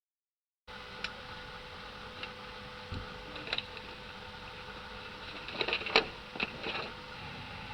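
Steady airliner cabin noise inside a Boeing 737-800: an even hiss with a faint steady hum, cutting in abruptly under a second in. Scattered short clicks and knocks sound over it, a small cluster around six seconds in being the loudest.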